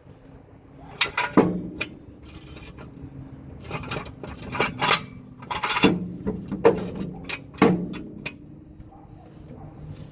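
Metal clanking from work on a car's front suspension: about eight sharp knocks, several followed by a short ringing hum.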